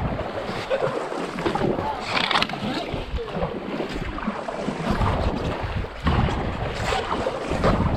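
Wind buffeting the microphone over moving water as a kayak travels down a river, with brief splashes every so often.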